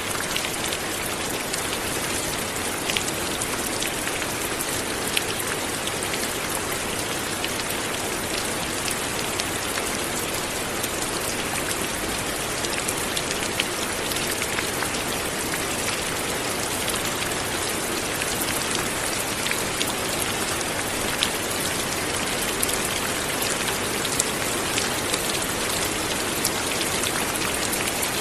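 Light, steady rain falling, an even hiss with scattered individual drops ticking sharply on a surface.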